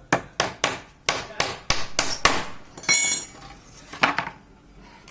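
Hammer blows, probably nailing together a wooden birdhouse: about eight quick sharp strikes, then two more spaced-out knocks, the first of them ringing briefly.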